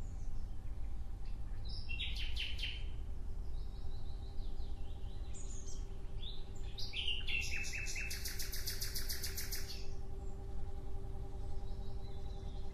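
Birds calling in short, rapid trills, the loudest a long, high, buzzy trill from about seven to ten seconds in. A steady low rumble and a faint hum run underneath.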